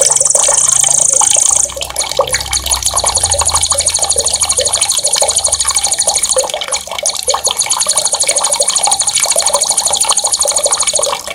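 A songbird sings long, high, fast rolling trills, breaking off briefly twice, over running, splashing water.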